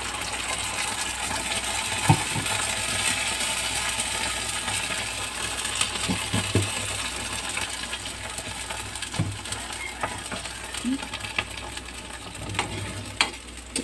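Canned sardines in tomato sauce sizzling and spattering in hot oil in a wok, a steady fizzy hiss. A few sharp clicks and knocks of metal against the pan break in, the last one near the end.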